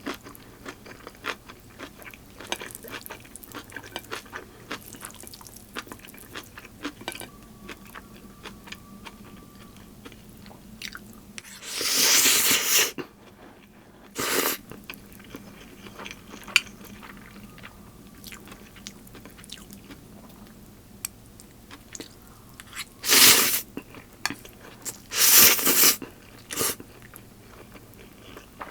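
Close-miked eating: a steady run of small wet chewing clicks, broken by a few louder, noisy bursts about a second long, once about twelve seconds in and several more in the last third.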